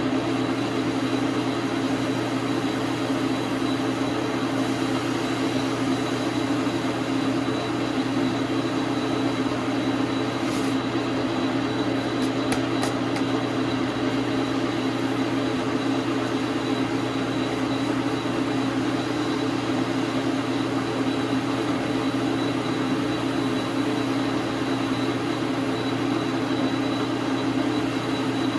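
Dar Sin 12 x 37 manual lathe running steadily: an even motor and gear hum with a faint high whine, and a few light ticks about halfway through.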